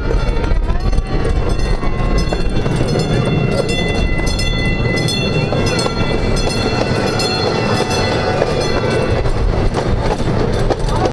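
A ride train running along its track, with wheels clattering and steady high metallic squealing tones.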